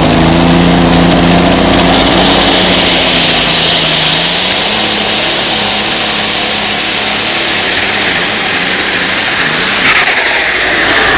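Modified tractor-pulling engine running hard at full power, very loud, with a high whine climbing steadily in pitch over its low engine note. The whine cuts off abruptly about ten seconds in.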